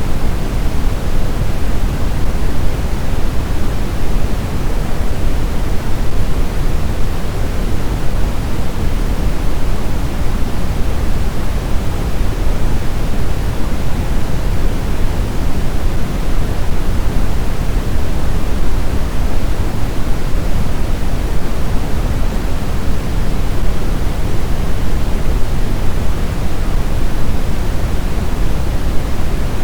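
Steady blizzard wind: a dense, even rushing noise, heaviest in the low end, with no gusts, whistling or howling rise and fall.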